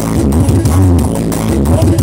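Loud music with a heavy bass line played through a 'sound horeg' rig, a giant stack of speakers used for sound checks and parades.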